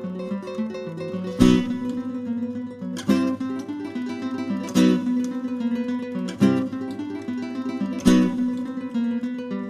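Background music on acoustic guitar: a plucked melody, with a strong strummed chord about every one and a half seconds.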